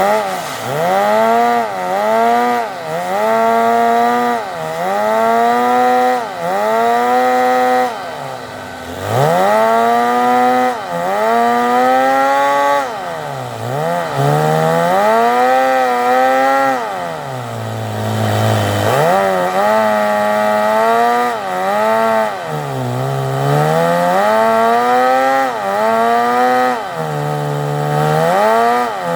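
Fox-body car's engine being revved over and over through a tuned exhaust. Each rev climbs quickly, holds for about a second and drops, roughly every two seconds. Twice, about midway and again a little later, it falls back to a lower pitch for a moment.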